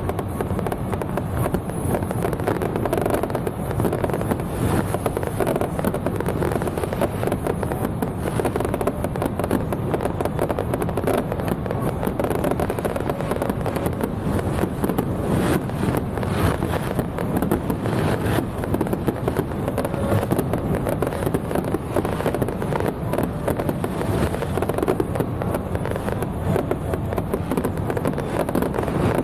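Fireworks or strings of firecrackers going off in a dense, continuous crackle, steady throughout.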